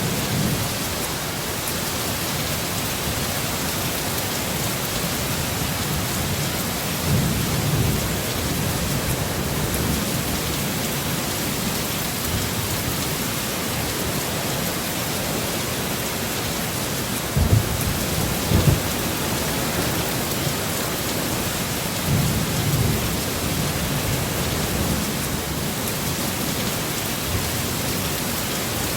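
Steady, dense rain with a few low rumbles of thunder: one about a quarter of the way in, two sharper ones just past the middle, and another about three quarters through.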